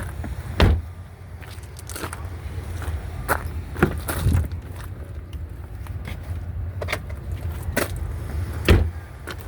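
A handful of sharp knocks and thumps at irregular times over a steady low rumble, the loudest near the start and near the end.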